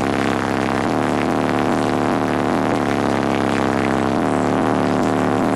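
A truck's high-powered car audio system playing a hip-hop track's deep, steady bass note loudly, a sustained low hum with strong overtones and a slight pulse about twice a second.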